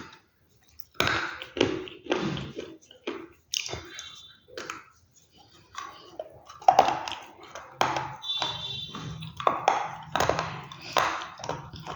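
Close-miked crunching and chewing of crisp food: irregular crunches about twice a second, with a short lull around five seconds in.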